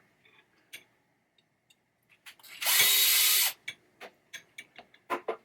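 A small power drill/driver spins for just under a second, about halfway through, with the usual start and stop of its motor. Small sharp clicks and taps of metal parts being handled come before and after it.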